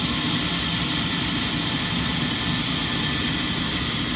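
Sawmill machinery running steadily, a constant even mechanical noise with no cutting strokes or impacts.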